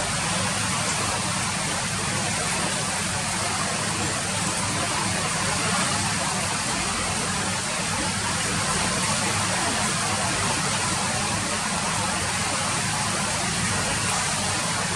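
Steady rain falling, an even hiss with no let-up and a low rumble underneath.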